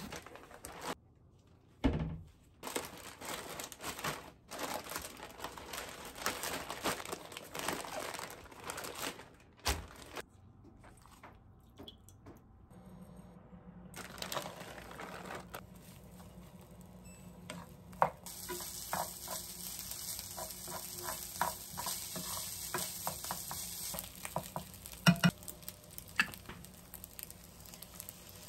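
Plastic bag of frozen fried rice crinkling as it is cut open and handled, then the rice frying in oil in a pan, with a steady sizzle in the middle stretch and scattered clicks and knocks of stirring and handling.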